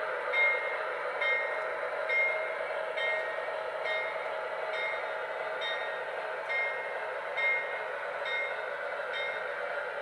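MTH Proto-Sound 2 model diesel locomotive's sound system playing steady diesel running sound, with a short click recurring about once a second like wheels passing rail joints.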